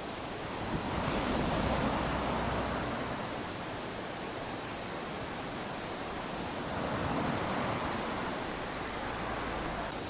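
Small waves lapping onto a sandy shore: a steady wash of surf that swells twice, about a second in and again around seven seconds.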